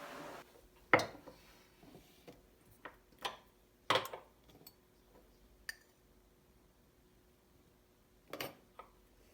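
Scattered clinks and knocks of kitchenware being handled, a handful of separate sharp strikes with quiet gaps between them.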